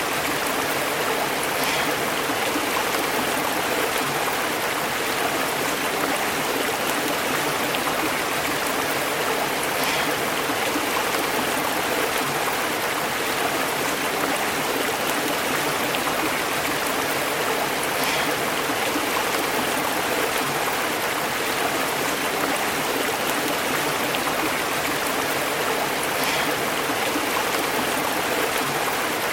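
Stream burbling over rocks: a steady, even rush of flowing water.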